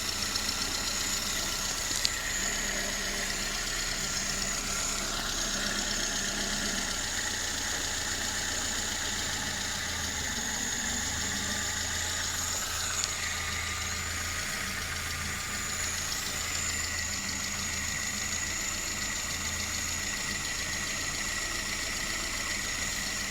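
VAZ 21083 four-cylinder petrol engine idling steadily with a knock from the cylinder head, whose cause the owner cannot identify.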